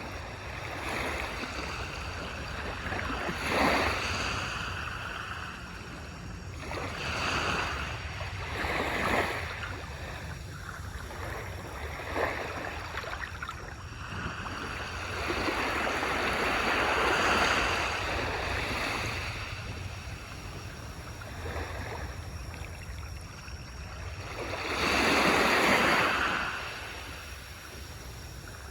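Waves washing onto a beach, each swell of surf rising and falling over a few seconds, the biggest one near the end, over a steady low rumble.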